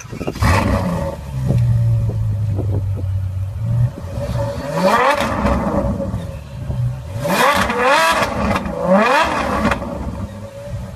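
Ferrari F12's naturally aspirated V12 firing up with a sudden loud flare, settling to a steady idle, then revved several times in quick blips in the second half.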